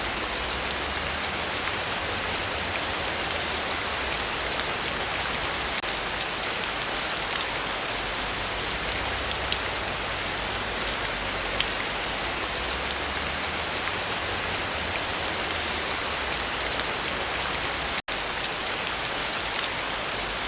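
Heavy rain falling steadily: a dense, even hiss with scattered sharp drop ticks. The sound cuts out completely for an instant about eighteen seconds in.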